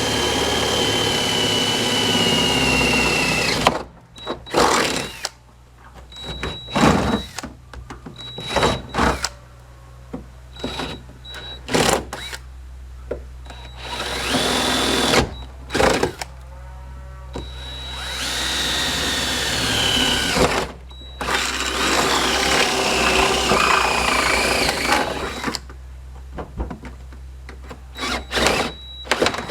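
Handheld electric power tool working through car-body sheet metal. It runs steadily at first with its whine sagging slightly, then is switched on and off in short bursts, with a few longer runs.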